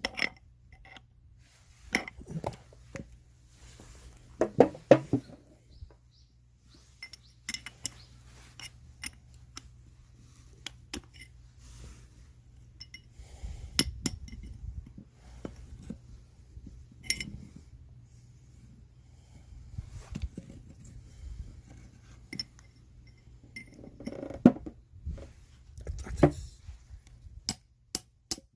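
Small metal parts and hand tools clinking and knocking irregularly while a Suzuki Jimny manual transmission is being taken apart, with a few short clattering spells and a faint steady low hum underneath.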